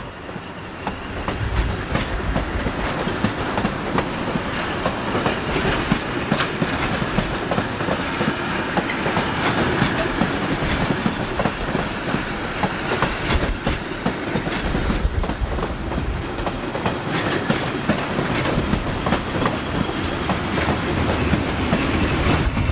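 Train running along the track, its wheels clattering over the rails in many quick clicks against a steady rumble.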